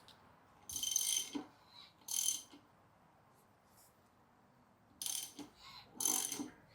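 A ratchet wrench clicking in four short bursts of strokes, tightening bolts on the engine.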